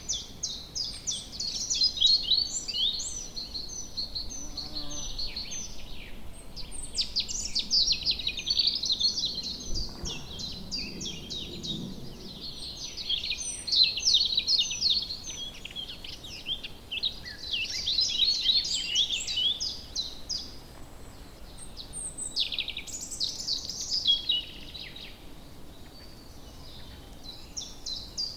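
Several woodland birds singing at once, overlapping phrases of high chirps and trills that swell and fade every few seconds over a faint background hush.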